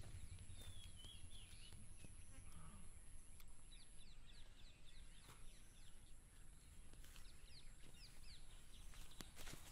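Faint outdoor ambience with birds chirping: a short gliding call about a second in, then quick runs of chirps around the middle and again near the end.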